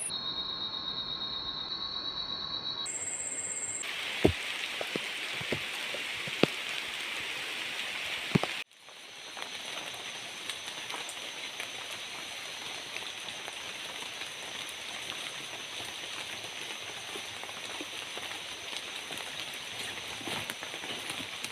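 Rain falling steadily, with a few loud, sharp drops striking close by in the first half. After an abrupt cut about a third of the way in, the rain continues evenly under a faint steady high tone.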